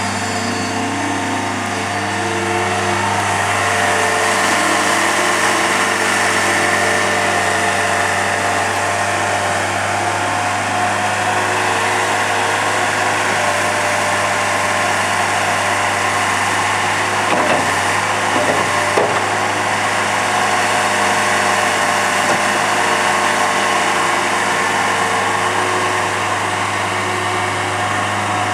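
Mustang 2054 skid steer loader's diesel engine running steadily, picking up slightly about three seconds in, with a few short knocks about two-thirds of the way through.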